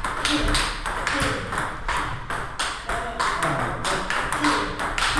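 Table tennis rally during drive practice: the ball clicking off the bats and bouncing on the table in a quick, even rhythm of about two to three hits a second.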